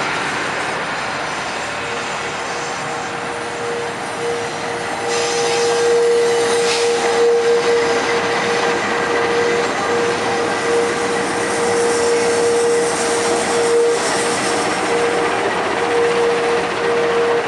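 A train rolling slowly past, a passenger car followed by two coupled diesel-electric locomotives, with steady running and rail noise. From about two seconds in, a thin steady squeal sounds, breaking off briefly now and then.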